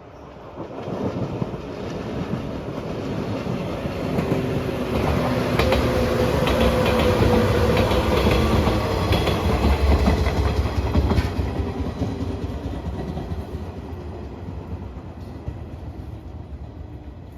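Train passing close by on the rails. The rumble builds, is loudest with wheels clattering over the rail joints around the middle, then slowly fades away.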